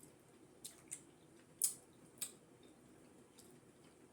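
Chewing food with wet mouth smacks: four short sharp clicks in the first half, then quieter chewing.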